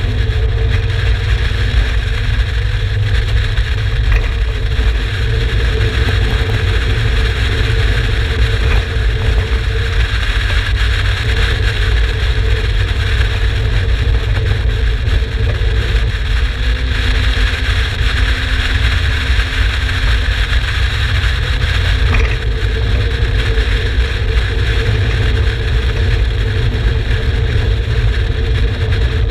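Turbocharged Mazda MX-5 BP four-cylinder engine in an Exocet running at a fairly steady pitch, with no big revving. A heavy low rumble lies under it throughout.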